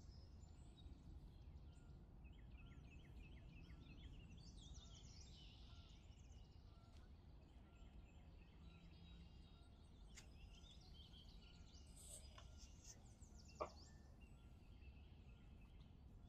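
Near silence: faint birds chirping and trilling over a low steady background rumble, with one short knock near the end.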